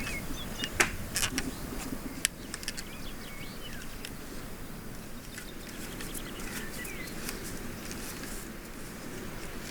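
A few sharp clicks and knocks in the first couple of seconds, then a steady outdoor background with faint bird chirps.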